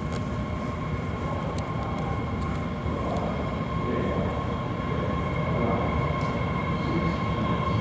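Subway train running: a steady rumble with a steady high whine, growing slightly louder toward the end.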